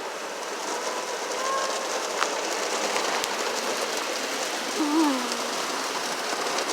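Automatic car wash heard from inside the closed car: water jets drumming and rushing over the roof and windows in a steady wash of noise with fine pattering ticks, building slowly, with a couple of sharp clicks.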